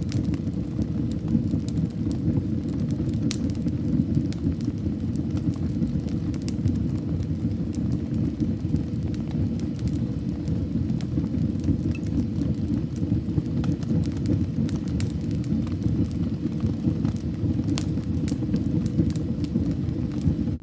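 Fire burning in a fireplace: a steady low rumble of flames with frequent sharp crackles and pops scattered throughout.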